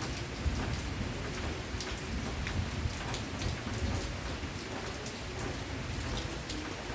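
Steady rain falling, a constant hiss with many separate drops pattering close by, over a deep low rumble.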